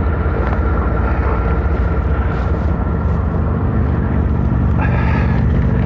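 Engines of a large passing head boat, a steady low drone with an engine hum that grows stronger about four seconds in.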